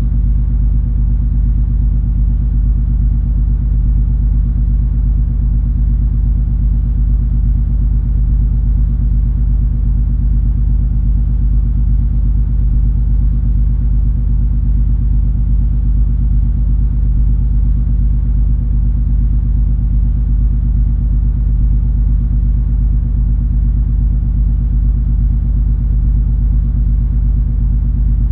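Cruise ferry under way, heard on board: a deep, steady engine and machinery rumble with a few held hum tones and hardly any high sound.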